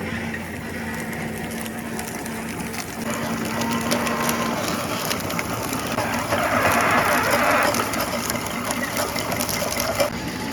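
A machine running, with a steady hum and a fast mechanical rattle; it gets louder for a second or two about two-thirds of the way through.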